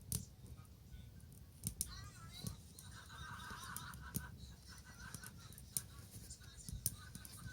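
Wood bonfire crackling, with scattered sharp pops over a low steady rumble.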